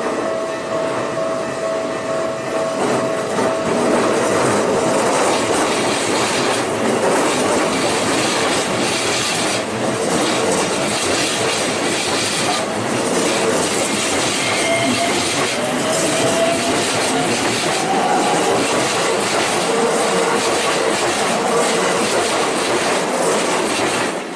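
Keikyu Line train running over the level crossing: steel wheels clacking over the rail joints, with brief wheel squeals in the middle. The crossing's warning bell rings at the start and is heard again as the train noise drops at the end.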